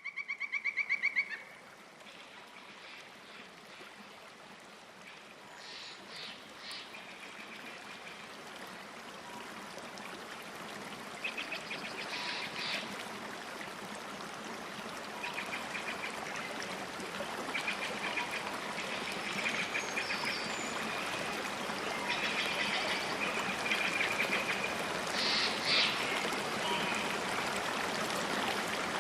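Running water, a stream trickling, with short chirping animal calls repeated above it. A rapid pulsed trill sounds at the start, and the water grows gradually louder.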